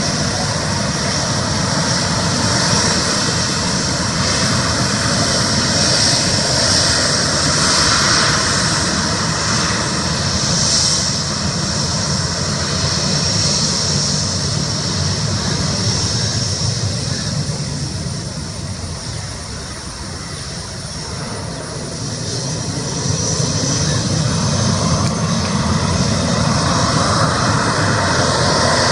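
Jet engines of an Air India Express Boeing 737 running: a steady rush with a high whine on top. The sound fades somewhat about two-thirds of the way through, then builds again near the end.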